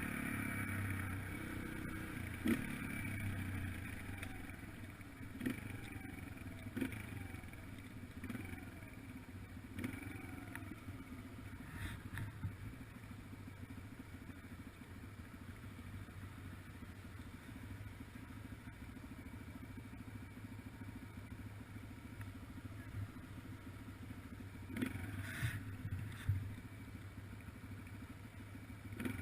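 2003 Yamaha TT-R125LE dirt bike's single-cylinder four-stroke engine running steadily under way, with a few brief rises and falls in revs and scattered knocks and rattles.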